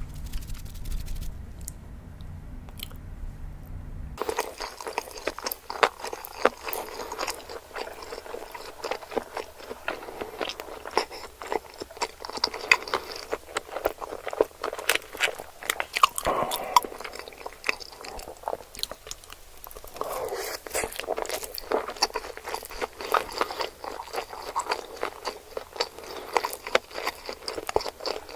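Close-miked crunchy biting and chewing of sushi, a dense run of crisp crackling clicks starting about four seconds in, after a stretch of low hum with a few faint ticks.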